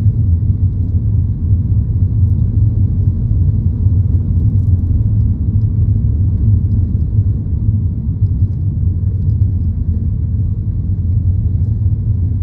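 A loud, steady low rumble, with no distinct events in it.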